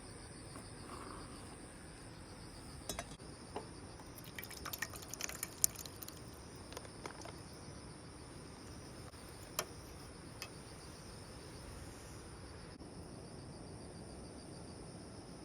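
Insects chirping in a steady high trill, with a scatter of light clicks and clinks about 3 to 6 seconds in and twice more near 10 seconds.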